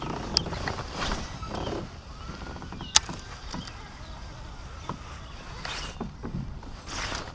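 Small knocks, swishes and water sounds around a fishing kayak, with one sharp click about three seconds in.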